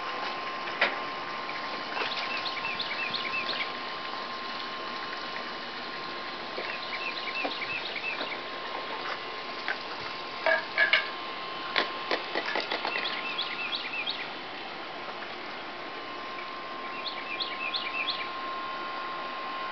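A songbird singing runs of quick, repeated high chirps, four times, over a steady hiss of outdoor background noise. A few short, sharp knocks come about halfway through.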